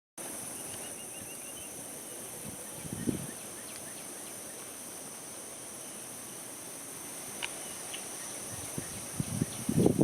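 Steady high-pitched insect drone, with a small bird giving a quick run of about six short chirps in the first two seconds and a few single sharp calls later. Low rustling comes in briefly about three seconds in and again near the end.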